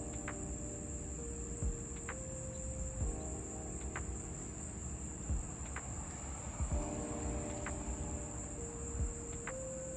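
Insects trilling in a steady, unbroken high-pitched chorus. Under it, faint music repeats a short pattern of held chords every few seconds, with occasional low thumps.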